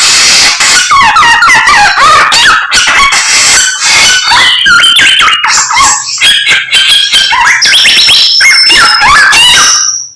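Samyong songbird singing loudly and without pause: a rapid run of varied whistles, sweeping notes and harsher calls, which breaks off just at the end.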